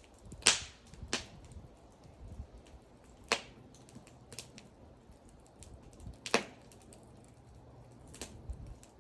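Wood fire crackling: irregular sharp pops of burning wood, the loudest about half a second in and others near three and six seconds in, over a faint low rumble.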